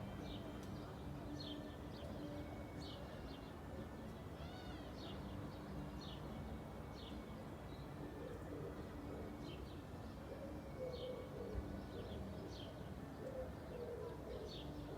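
Small birds chirping over and over, short high notes every second or so, with a brief warbled phrase about four seconds in. Beneath them runs a steady low rumble of background noise.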